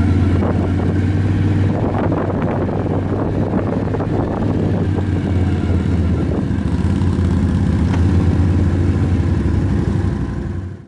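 An ATV's engine running steadily while riding, with scattered rattles and knocks. It cuts off suddenly near the end.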